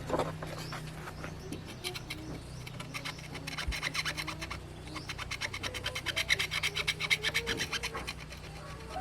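Rapid back-and-forth scrubbing or scraping strokes on a hard part, about eight strokes a second, growing louder in the second half and stopping near the end.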